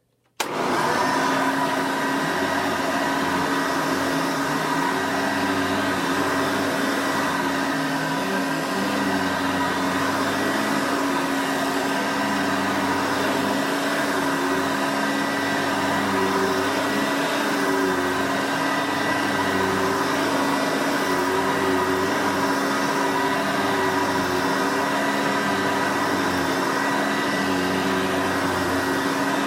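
Hoover Elite 200 upright vacuum with a 5-amp motor switched on about half a second in, then running steadily while it is pushed over rugs. Its motor tone is not a screamer.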